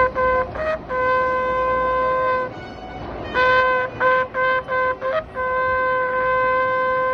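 A single-pitched horn sounded in a pattern of long blasts and quick short toots, the pitch holding steady throughout.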